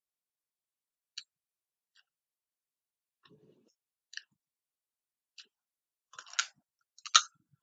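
Sounds of a person eating a meal: a few scattered faint clicks, then two louder clattering bursts in the last second and a half.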